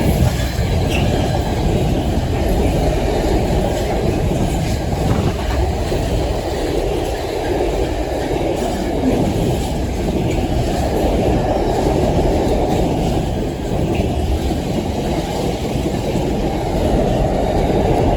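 Freight train hauled by Class 66 diesel locomotive 66704 passing over the level crossing. The wagons' wheels run over the rails with a steady, loud noise, strongest in the low range.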